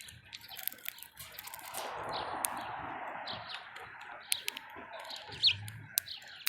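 Small birds at a feeder chirping now and then with short high notes, among scattered sharp clicks and taps. A soft rushing noise runs for a couple of seconds in the middle.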